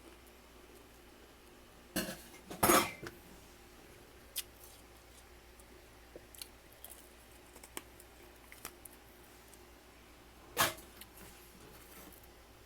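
Freezer frost being bitten and crunched. There is a crunch about two seconds in, a louder one just after, a short crack a little later and another crunch near the end, with faint crackles and clicks between.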